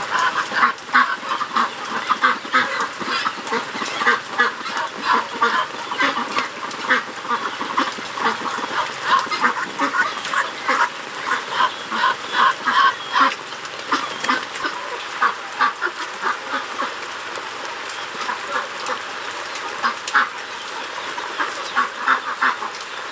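A flock of farm poultry calling, many short calls in quick succession. The calls are busiest in the first half, thin out for a while, then pick up again near the end.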